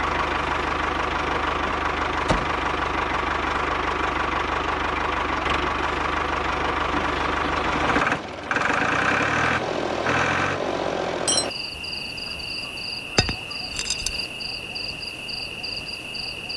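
Small model engine running steadily; about eight seconds in the sound changes and drops, and from about eleven seconds a steady high-pitched whine takes over.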